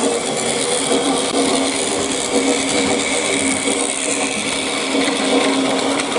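Battery-powered Plarail toy train running on plastic track: the small motor and gearbox give a steady whirr.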